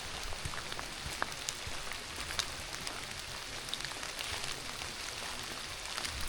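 Steady rain falling, an even hiss with many single drops ticking sharply close by.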